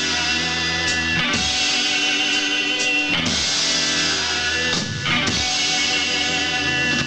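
Rock band playing live, electric guitars to the fore with a steady bass line, the chord changing about every two seconds.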